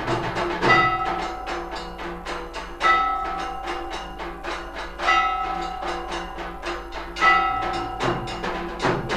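Temple aarti percussion: rapid, continuous drum and metal beats, with a heavy stroke about every two seconds that leaves a bell-like ringing tone hanging after it.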